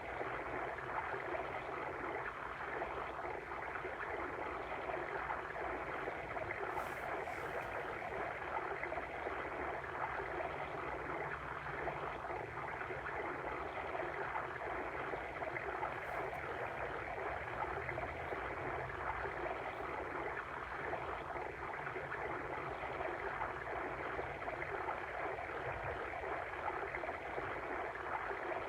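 Steady running water of a babbling stream.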